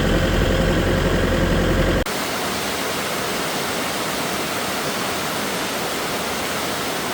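A tractor engine idles under falling rain for about two seconds. Then, abruptly, only the steady hiss of rain is left, with no engine underneath.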